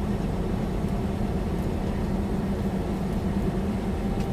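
Semi truck cruising at about 65 mph, heard inside the cab: a steady engine drone with road rumble below it.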